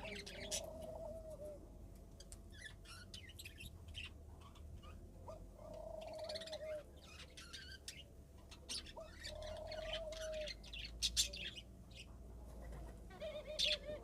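Parrot chirping, with short high chirps throughout and a lower warbling call, each about a second long, heard four times.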